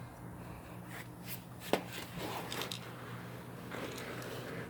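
Handling noise: light rustling and a few small clicks, the sharpest about 1.7 seconds in, over a low steady hum.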